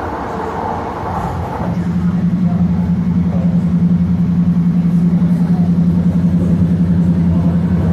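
AirTrain JFK car running along its guideway, a linear-induction-motor train. About two seconds in, a steady low hum with a rapid pulse sets in and grows louder over the rumble of the car.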